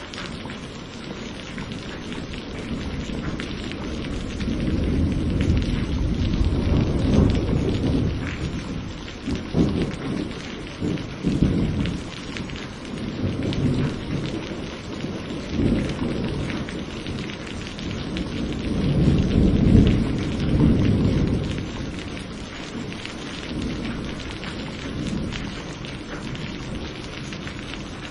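Steady rain with rolling thunder: low rumbles swell and fade over the rain's hiss, building about a third of the way in and again loudest around two-thirds of the way through before easing.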